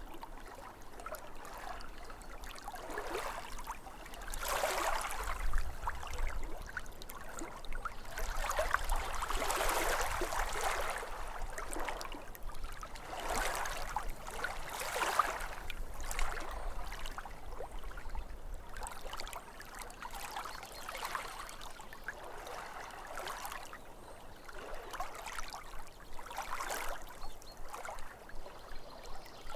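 Small lake waves lapping at the shore in uneven swells and splashes every second or two, louder for a while in the middle.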